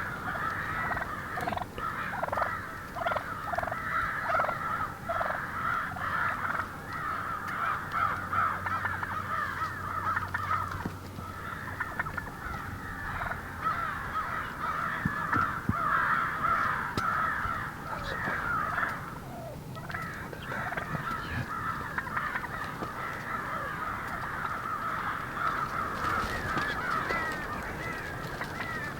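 Birds calling continuously in a dense chorus, with a run of short repeated calls, about two a second, a couple of seconds in.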